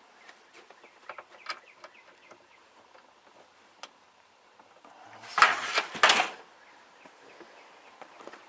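Light clicks and handling noise at the air conditioner's control knobs, then two loud, short bursts of knocking and rustling about half a second apart a little past halfway.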